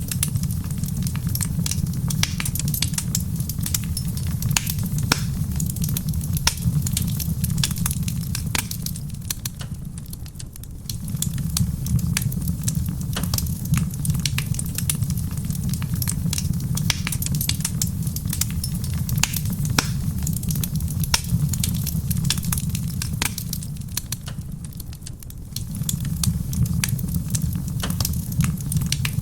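Wood fire in a stone fireplace crackling, with frequent sharp pops and snaps over a steady low rumble. The rumble fades briefly twice, about a third of the way in and again near the end.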